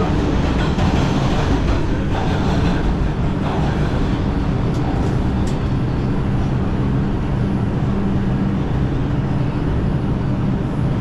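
New York City subway train running: a steady, loud noise with a low, even hum.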